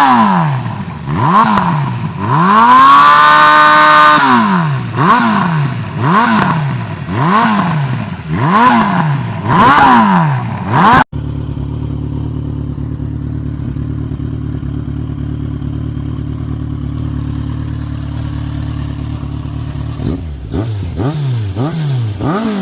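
Big-displacement motorcycle engine revved in quick repeated blips, with one longer held rev, loud throughout. About halfway the sound breaks off abruptly and a motorcycle idles steadily, and quick revs start again near the end.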